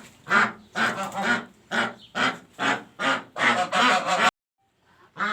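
Pekin duck quacking loudly and repeatedly while being held, about two calls a second. The calls cut off abruptly about four seconds in, and one more follows near the end.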